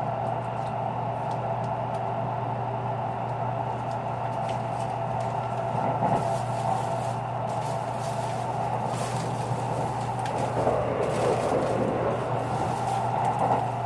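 Running noise of a JR Kyushu Series 783 electric train heard from inside a passenger car: a steady rumble and hum with scattered light ticks, growing louder and rougher for a moment about six seconds in and again over the last few seconds.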